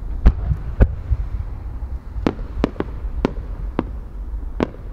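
Aerial fireworks going off: a series of about eight sharp bangs, the two loudest within the first second and the rest spaced irregularly after, over a steady low rumble.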